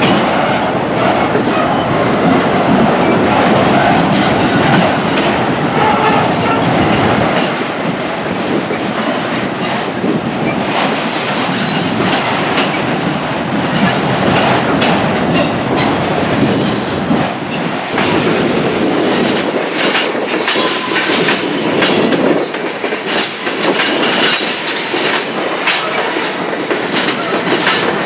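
Train cars rolling past at close range: a steady rumbling rush with wheels clicking and clattering over rail joints, loudest in the first several seconds.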